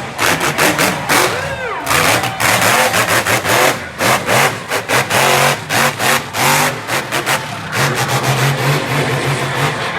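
Monster truck engine revving hard in choppy bursts, its pitch rising and falling as the throttle is worked.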